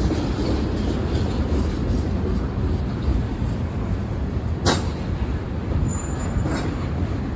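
Freight train rolling past with a steady low rumble of wheels on rail, and one sharp clank a little over halfway through.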